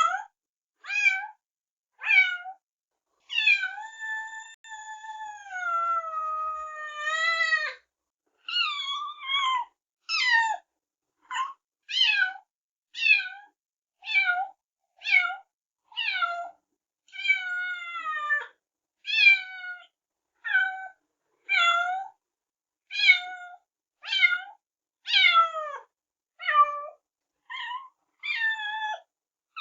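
Kitten meowing over and over in short, high-pitched calls about once a second, with one long drawn-out meow of slowly falling pitch a few seconds in.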